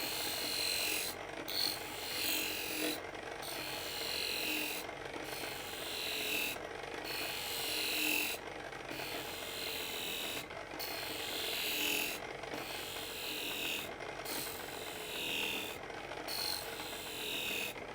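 A knife blade drawn against a motor-driven honing wheel charged with honing compound, hissing through each stroke and breaking off briefly about every two seconds as the blade is lifted and brought back, about ten strokes in all. The electric motor and pulley drive run steadily underneath.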